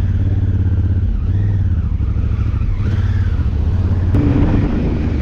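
Enduro motorcycle engine running loud and close, its revs rising and falling a little.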